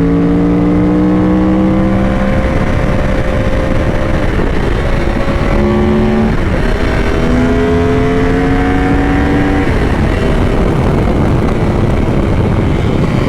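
Yamaha R1 sport bike's inline-four engine accelerating hard, its pitch climbing through about three gears with a short break at each upshift, then the throttle rolling off about ten seconds in. Heavy wind noise runs underneath.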